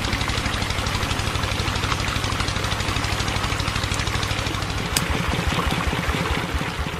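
Steady, rapid chugging like a small engine at idle, running along with a miniature water pump as it pumps water. A single sharp click comes about five seconds in, and the chugging fades near the end.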